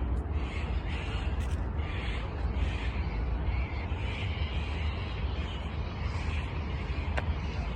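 Birds calling over and over in short, harsh calls, about two a second, over a steady low rumble. A sharp click comes near the end.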